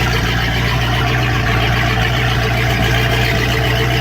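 Boat's V8 engine idling steadily, warming up on its first start of the season.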